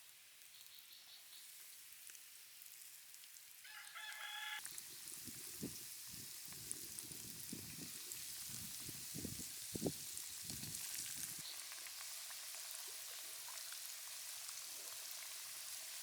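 Chicken gizzards deep-frying in hot oil, a steady crackling sizzle that builds over the first few seconds. A short pitched call sounds about four seconds in, and a low rumbling with irregular thumps runs from about five to eleven seconds.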